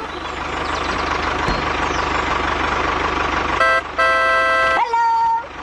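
A small DIY tractor's engine running steadily, then its horn sounding: a long blast about three and a half seconds in, broken briefly, followed by a shorter blast at a different pitch near the end.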